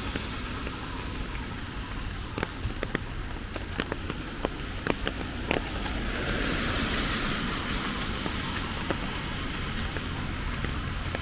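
Rain falling steadily, with many sharp ticks of individual drops landing close by during the first half. A brighter hiss swells about six seconds in and then settles.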